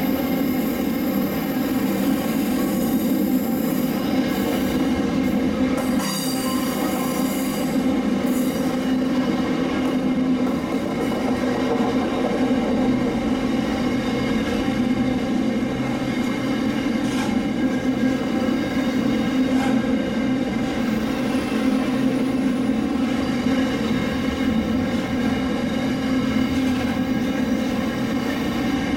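Steam-hauled heritage train running steadily: a continuous rumble of the train on the rails, with no breaks.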